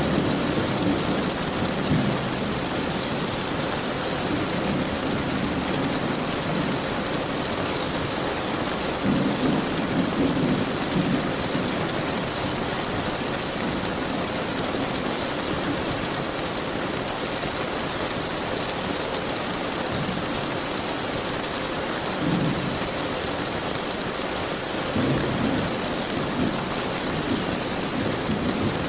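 Steady heavy rain falling, with low rolls of distant thunder swelling up several times, around a third of the way in and again near the end.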